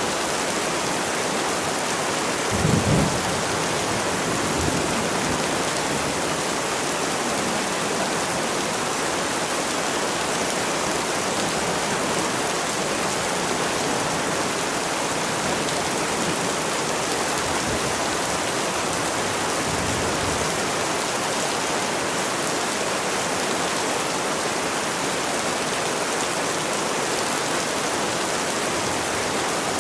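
Steady rain falling, an even hiss throughout. A brief low rumble comes about three seconds in, with fainter low bumps later.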